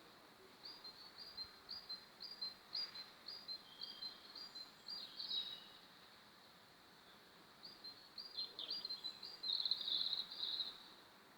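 Budgerigars chirping: a run of short, evenly spaced high chirps for about five seconds, a pause of two seconds, then another run that ends in a denser burst of chirping.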